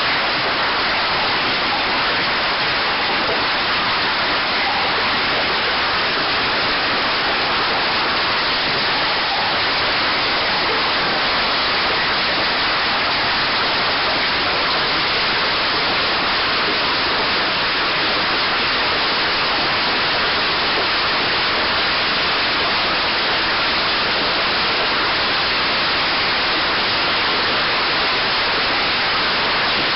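Hailstorm with golf-ball-sized hail falling: a steady, even rushing noise of hail and rain coming down.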